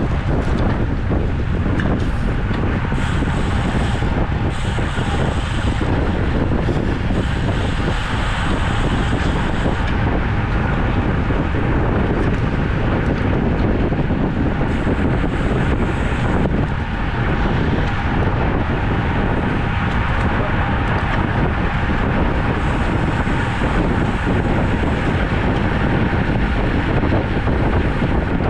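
Steady wind rushing over the microphone of a camera carried on a moving road bike.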